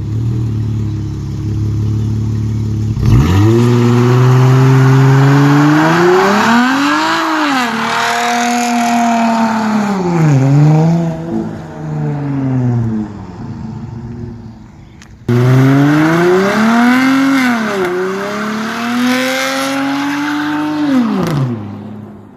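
Dodge Charger's 3.6-litre V6, its mid mufflers replaced by a single Flowmaster Super 10 with straight pipe behind, accelerating hard. The revs climb, drop back at each gear change and climb again, in two pulls a few seconds apart.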